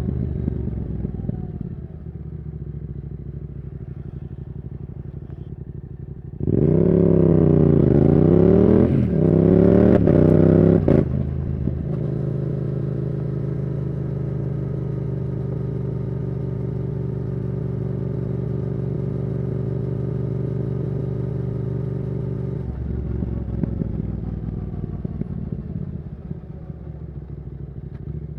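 Yamaha R7's 689cc CP2 parallel-twin engine through a Yoshimura R77 exhaust with the dB killer out, heard from the rider's seat. It runs low at first, then about six seconds in it opens up hard with the revs climbing, pauses briefly for an upshift, and climbs again. It rolls off about halfway through the second rise, cruises at a steady pitch, and eases off near the end.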